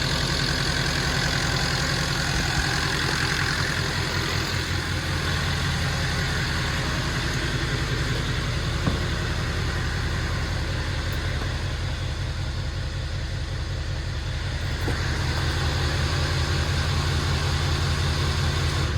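GM Duramax LML 6.6-litre V8 turbodiesel idling steadily, with the tick its owner is recording.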